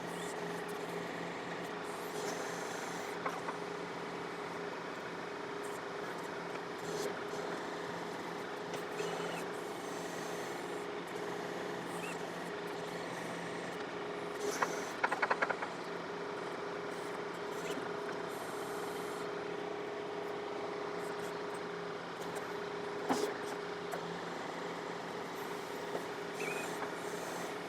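John Deere 4052R compact tractor's diesel engine running at a steady speed while the backhoe works. There are occasional knocks, and a short burst of rattling clanks about halfway through.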